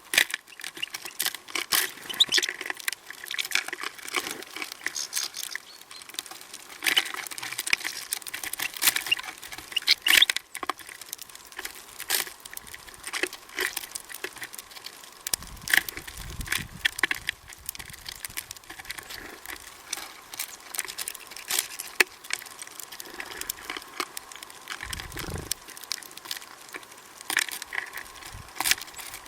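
Small birds feeding at a seed feeder: dense, irregular tapping and clicking of beaks and feet on seed and feeder, with a couple of low bumps partway through.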